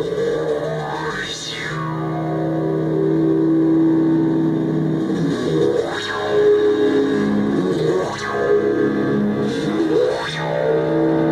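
Modular synthesizer playing a held, buzzing drone that steps between a few notes, with four swooping filter sweeps rising and falling through it.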